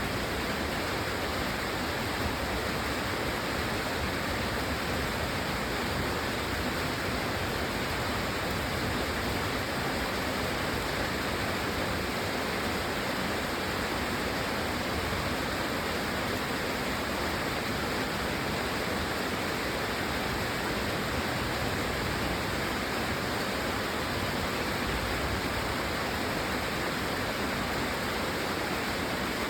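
Steady rain falling, an even hiss of water with no breaks or separate drops standing out.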